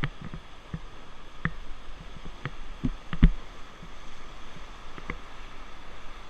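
Steady rush of river water heard from a raft, with irregular knocks and thumps. The loudest thump comes about three seconds in.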